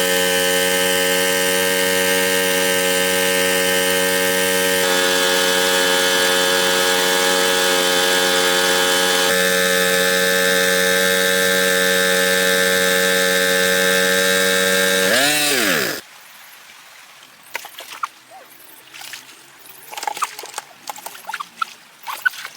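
A steady motor drone with many even tones, stepping slightly in pitch twice, then sweeping up and down and cutting off suddenly about sixteen seconds in. After that it is much quieter, with scattered faint clicks and knocks.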